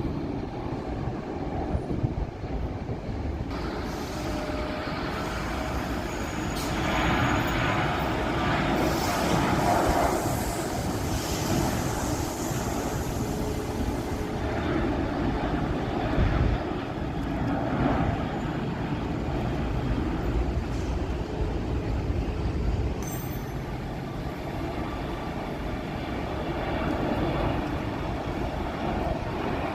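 Jet airliner engine noise: a continuous rumble that swells into a louder roar about a quarter of the way in, then eases off to a steady rumble.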